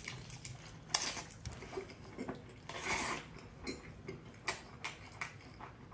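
Hands handling and cracking open a young Chinese mitten crab's shell: a string of irregular small clicks and crisp snaps, with a short scraping crunch about three seconds in.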